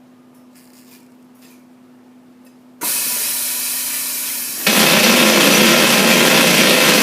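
Truck tire sidewall remover machine starting up suddenly with a loud, even mechanical noise about three seconds in, which grows louder still about two seconds later and runs on steadily. A faint steady hum is heard before it starts.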